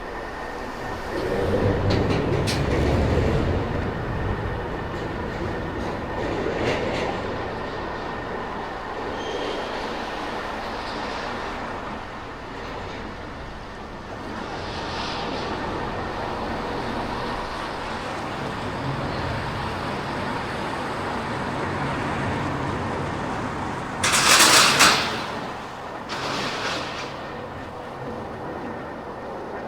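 Steady road and traffic noise of a car driving through city streets. A loud rush of noise lasting about a second comes near the end, followed by a smaller one.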